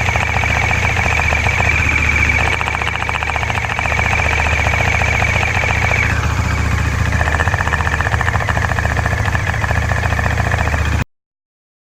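Bajaj Dominar 400's single-cylinder engine running after a cold start, a fast rattling under a steady high-pitched whine that the owner takes for an abnormal clutch noise when the clutch is worked. About six seconds in the whine drops to a lower pitch, and the sound cuts off suddenly near the end.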